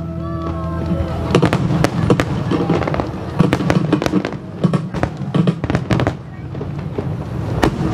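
Aerial firework shells bursting in a rapid barrage of sharp booms and crackles, with a short lull about six seconds in before one last loud report.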